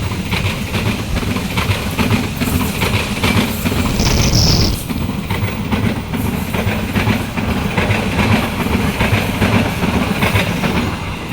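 A train passing close by, its wheels clattering over the rails in a continuous heavy rumble, with a brief high-pitched squeal about four seconds in.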